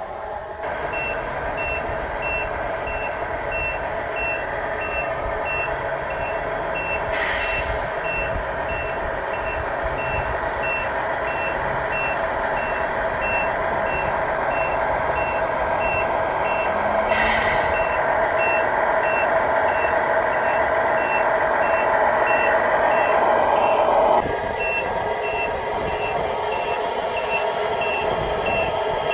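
Truck back-up alarm beeping steadily as the truck reverses, over a running engine drone that grows louder and drops off suddenly about two-thirds of the way through. Short hisses break in twice, about ten seconds apart.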